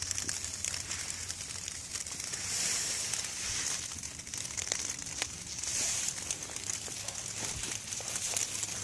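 Light rain on a plastic tarp: a steady high hiss with many small ticks of drops, swelling twice and scattered with a few sharper clicks.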